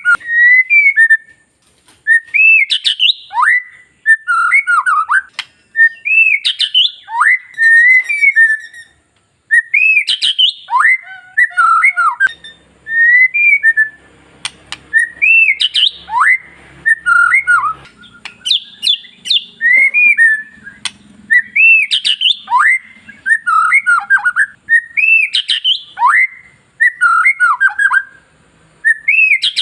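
White-rumped shama (murai batu) singing: loud, clear whistled phrases of rising and falling slurs, repeated every few seconds with short pauses between.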